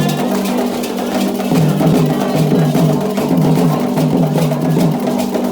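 Candomblé ritual drumming on atabaque hand drums with a struck metal bell keeping a steady pattern, under voices singing a melody.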